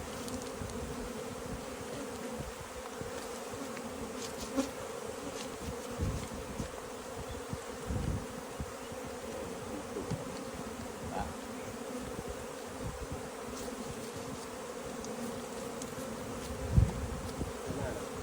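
Many honeybees buzzing together in a steady drone, with a few dull low thumps; the loudest thump comes near the end.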